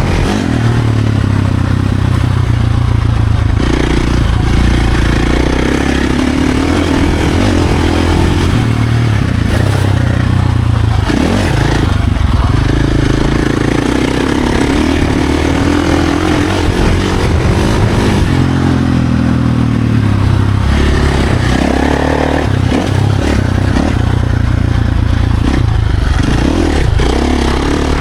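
Dirt bike engine running hard on a trail, revving up and easing off over and over, its pitch rising and falling with the throttle and gear changes.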